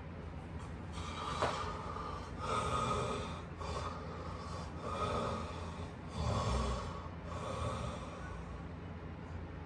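A sleeping person snoring, with about five rough breaths a second or so apart, over a steady low hum.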